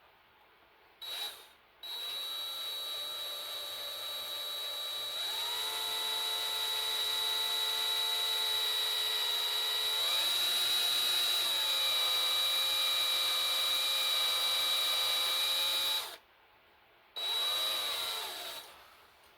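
Power drill with a reverse (left-hand) bit drilling out a broken bolt in an engine block: a short burst, then a long steady run with a motor whine that steps up in pitch twice, stopping about 16 seconds in. One more short burst follows, its whine falling as the drill winds down.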